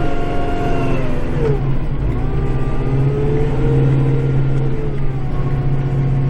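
Kubota compact tractor's diesel engine running steadily under load, heard from inside the cab. Its pitch sags about a second and a half in and comes back up a second later.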